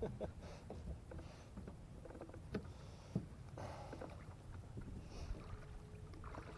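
Quiet sounds aboard a small fishing boat: faint water lapping with scattered light clicks and knocks, and a soft swish about three and a half seconds in.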